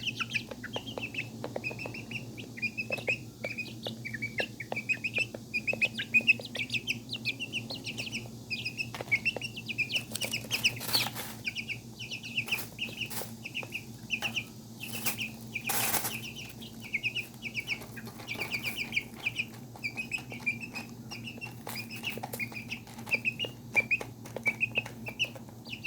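Young serama and pheasant-cross chicks peeping continuously in rapid short chirps, with a few brief rustling bursts near the middle. A steady low hum runs underneath.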